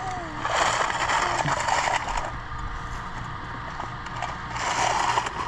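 Dry soybean stubble and crop residue crunching and scraping, in two spells: one from about half a second in lasting nearly two seconds, and a shorter one near the end.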